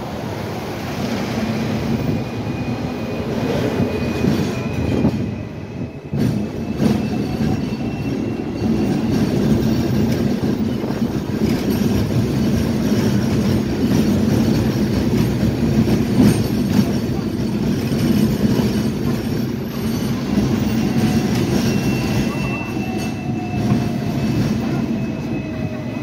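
Hong Kong double-decker electric tram running on its rails: a steady low rumble of wheels on track, with faint squealing tones from the wheels that slide slowly in pitch near the end.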